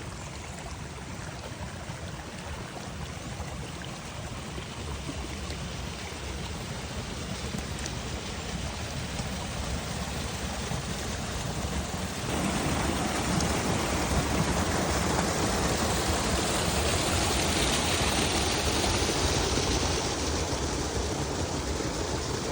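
Steady rushing noise of water, like a forest stream or rain, with no distinct events. It grows louder gradually and then jumps up suddenly about twelve seconds in.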